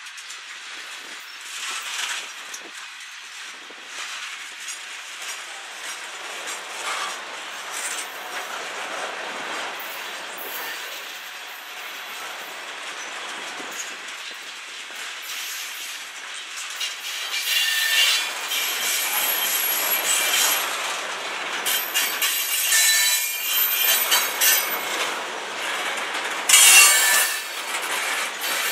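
Freight cars of a CN manifest train (covered hoppers and tank cars) rolling past, steel wheels clattering over rail joints. Thin, high-pitched wheel squeal joins about two-thirds of the way through, loudest near the end.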